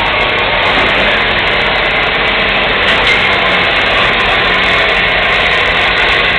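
Tractor engine running hard under load in a tractor pull, a loud, steady noise with no clear rise or fall in pitch.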